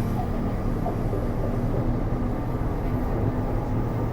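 Taipei Metro C301 train running steadily, heard from inside the passenger car: an even rumble of wheels and running gear with a faint steady hum.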